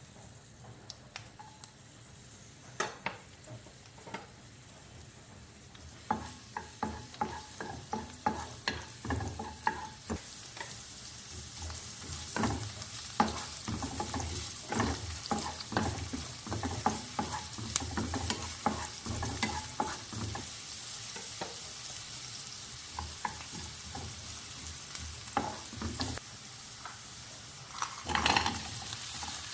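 Food frying in a pan while being stirred, the utensil clicking and scraping against the pan over a steady sizzle. It is sparse at first and gets busier about six seconds in, with a louder flurry of scraping near the end.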